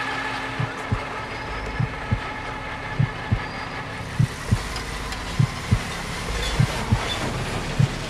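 Low double thumps like a heartbeat, a pair about every second and a quarter, repeating evenly over a steady hum.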